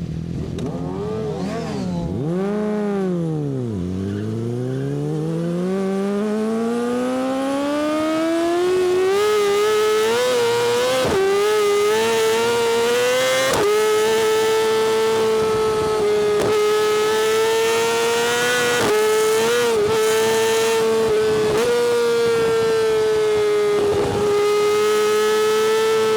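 Yamaha R6's inline-four engine through an Akrapovič exhaust. It gives a quick rev that rises and falls, then a long climb in pitch broken by brief dips at upshifts, then holds at steady high revs with small blips of the throttle.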